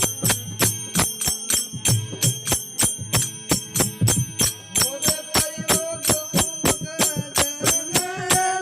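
Marwari desi bhajan music: a fast, even beat of percussion strikes with jingling bells or cymbals. A sustained melody line comes in about five seconds in.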